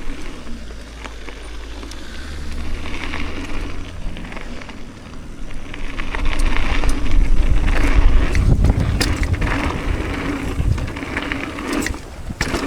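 Wind rumbling on the microphone over a mountain bike rolling on a rough track, with crunching and scattered clicks; the rumble grows louder about halfway through.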